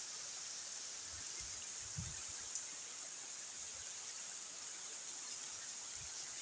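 Steady rain falling, an even hiss with no pauses, and a couple of faint low thuds about two seconds in.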